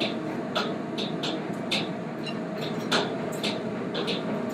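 Steady kitchen ventilation fan noise, with light, irregular clinks and taps of utensils on a skillet or plate as the food is served and tasted.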